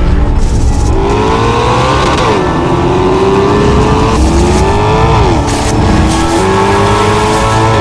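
Maserati GranTurismo's V8 engine accelerating hard through the gears, its pitch climbing steadily and dropping sharply at each upshift, about two and a half and five seconds in.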